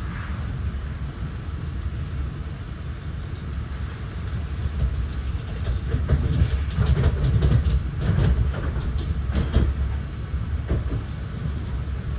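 Commuter train heard from inside the passenger car while running: a steady low rumble from the wheels on the rails. Between about five and ten seconds in it grows louder, with a quick run of clacks as the wheels cross track joints.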